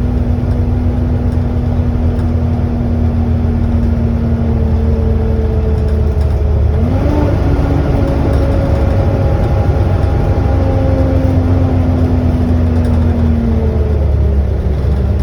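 Volvo B7TL double-decker bus under way, heard from on board: its engine drone is heavy and low, with a loud whine over it, the "hoover" sound. The whine holds a steady pitch, climbs about seven seconds in, then drops again near the end.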